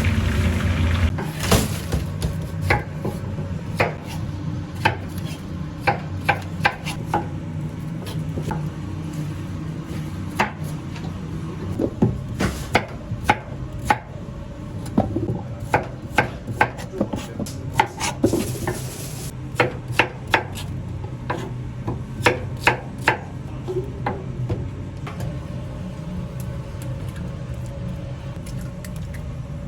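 Knife chopping on a cutting board in irregular runs of sharp strokes, bunched together at times, over a steady low kitchen hum.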